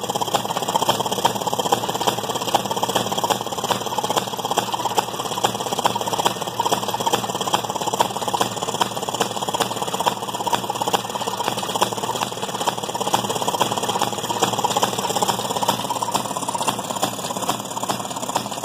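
1929 Maytag gas wringer washing machine running: its small single-cylinder two-stroke gasoline engine firing in a fast, steady, clattering beat, along with the machine's gearing.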